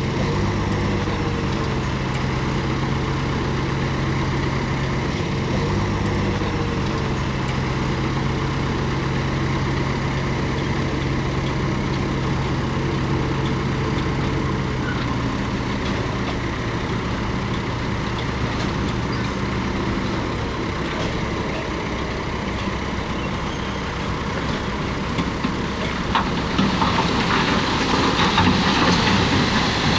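Komatsu D31P bulldozer's diesel engine running steadily while working. Over the last few seconds a louder grinding noise rises over the engine.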